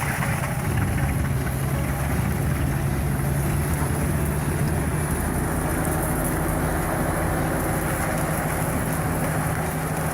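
Heavy machine engine running steadily at a constant pitch.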